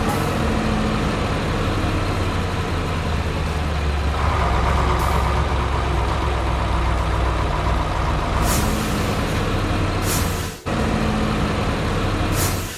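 Heavy diesel truck engine running steadily, with short air-brake hisses three times in the second half. The engine sound drops out for a moment and resumes.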